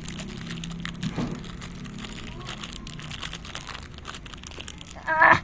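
Crinkly packaging being crumpled and handled in a struggle to open it, a run of irregular crackles and rustles. A short burst of a voice comes just before the end.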